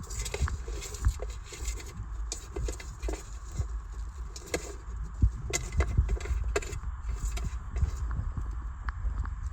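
A beaver gnawing and chewing on fresh branches: irregular crunching and sharp clicks of teeth on wood and bark, a few of them louder snaps.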